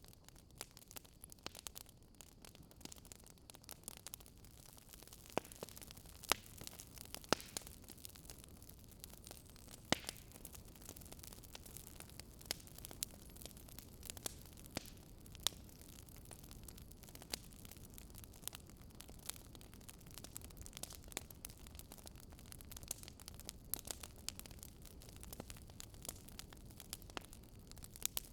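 Wood fire crackling in a fireplace: irregular sharp pops and snaps, a few of them louder, over a low steady hiss of burning logs.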